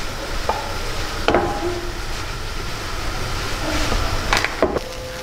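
Daal frying in a pan on a gas stove, with a steady sizzle, while a spoon stirs it and scrapes or knocks against the pan a few times, about a second in and twice near the end.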